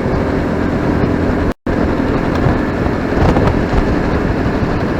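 Steady riding noise from a moving motorcycle: engine hum, road rumble and wind on the microphone. The audio cuts out completely for a split second about a second and a half in.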